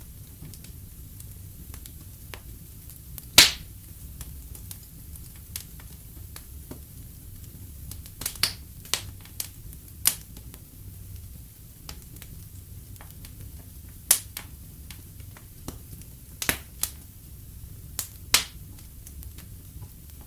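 Wood fire burning in a fireplace: a steady low rumble of flames with sharp, irregular crackles and pops of the burning wood, the loudest pop about three seconds in and small clusters of them later on.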